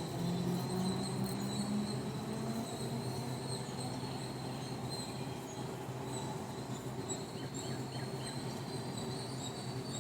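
Outdoor early-morning ambience: birds give a few short chirps over a steady high whine, with a low steady hum underneath that rises slightly in pitch over the first few seconds.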